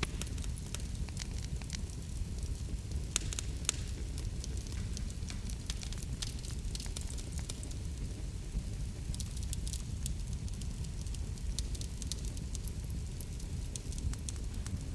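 Wood fire crackling in a fireplace: a steady low rumble of burning with many small, sharp pops and snaps, in clusters here and there.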